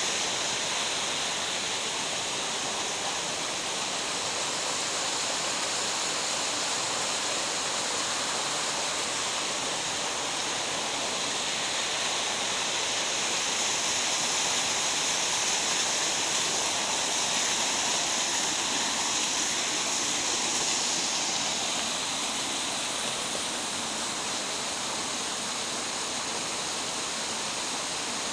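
Mountain gorge stream rushing steadily, a little louder through the middle.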